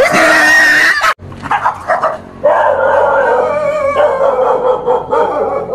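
A small dog howling in long, drawn-out calls. Before it, a short shrill cry is cut off suddenly about a second in.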